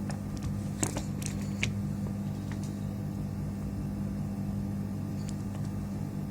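Steady low electrical hum with a few light clicks and taps of small tools and parts being handled on a workbench, about five scattered over the stretch.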